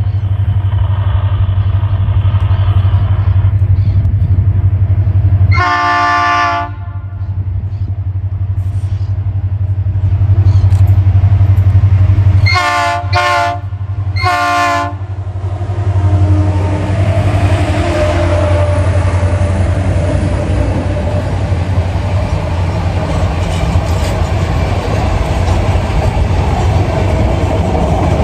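Diesel locomotives at the head of an empty iron-ore freight train approach with their engines running and sound the air horn: one blast of about a second, then three shorter blasts about seven seconds later. The locomotives then pass, and the empty ore wagons roll by with steady wheel-on-rail noise.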